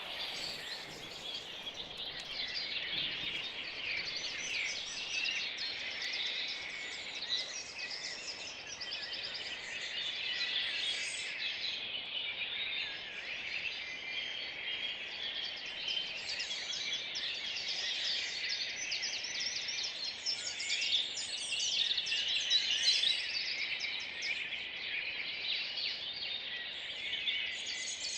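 Dawn chorus of several songbirds singing at once, many overlapping chirps, trills and warbling phrases.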